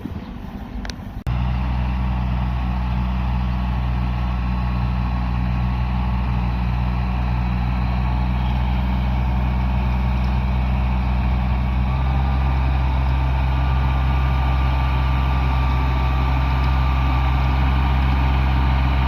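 Engine of a garden-tilling machine running steadily with an even low hum, cutting in suddenly about a second in.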